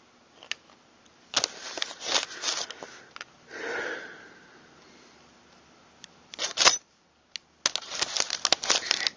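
Small metal shotgun trigger-group parts clicking and rattling in bursts as they are handled and fitted, with a short sniff about three and a half seconds in.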